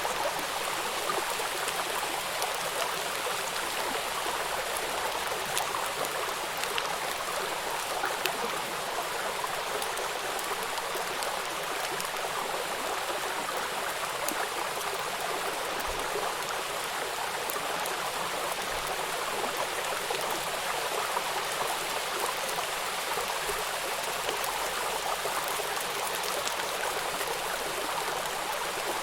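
Water rushing over rocks at a river waterfall: a steady, even rush with small splashes and no low rumble.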